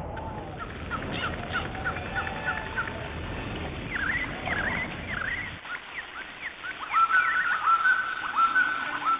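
Birds chirping: many short, quick chirps over a low background hiss that drops away about halfway, then a louder call repeated several times in the last couple of seconds.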